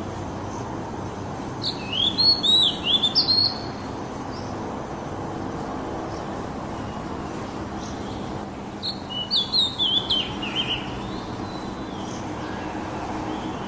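Oriental magpie-robin singing: two bursts of quick, gliding whistled notes, the first about two seconds in and the second about nine seconds in, over a steady low background rumble.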